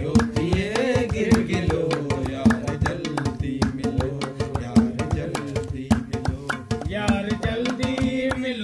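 Sindhi folk song: a voice singing in long, gliding phrases over quick, steady hand-drum strokes.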